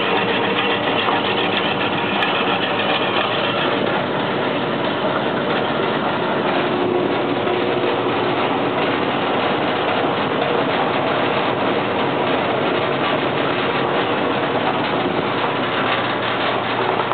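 Powermatic Model 81 20-inch bandsaw running steadily, a continuous even machine noise with a few faint steady tones underneath.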